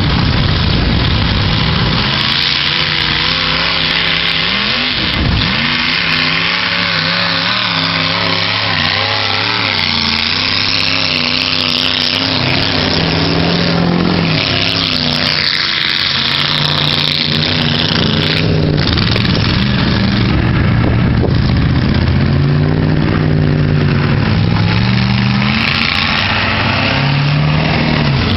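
Toyota off-road truck's engine revving hard through mud, its pitch rising and falling again and again over a steady rush of noise from the spinning tyres slinging mud.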